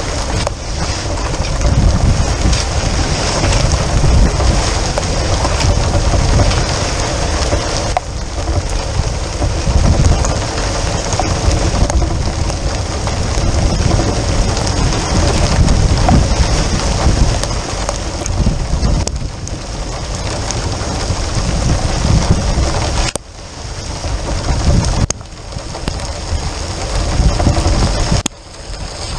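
Thunderstorm downpour on a sailboat: a dense, steady hiss of heavy rain with a deep rumble underneath, dropping away sharply twice near the end.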